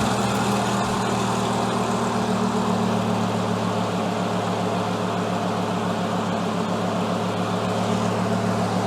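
Mid-mounted V10 engine in a Volvo 240 race car idling steadily.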